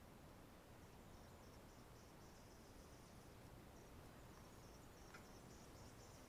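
Near silence with faint, high-pitched insect chirping in short repeated pulses, over a low background hiss.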